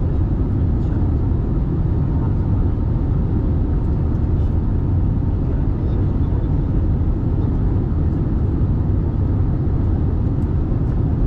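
Steady low rumble inside the cabin of an Airbus A320 airliner: engine and airflow noise, even and unbroken.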